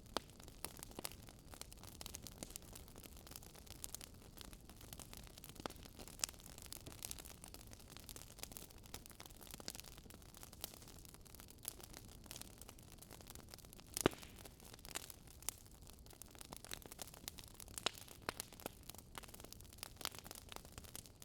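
Wood fire crackling: irregular small pops and snaps from burning logs over a soft hiss, with one louder pop about two-thirds of the way through.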